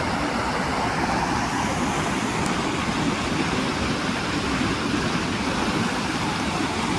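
Steady rushing noise of floodwater pouring over and past an overflowing river bridge.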